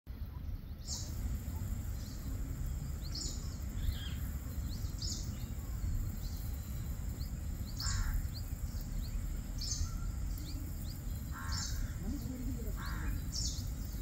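Birds calling: short high chirps repeat every second or so, and harsh cawing calls come about eight seconds in and twice near the end, over a thin steady high tone and a steady low rumble.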